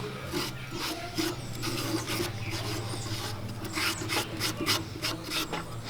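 Wood lathe running with a steady low hum while a turning tool scrapes against the spinning cedar bowl in many short, irregular strokes.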